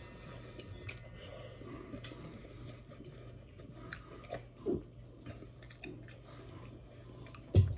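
A person chewing a mouthful of lasagna, with soft wet mouth sounds and small clicks. There is a short low sound about halfway through and a brief louder low thump near the end.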